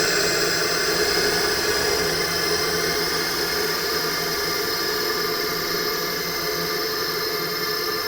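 Designed horror ghost-sound ambience: a steady, dense drone of many held tones over a hissing wash of noise.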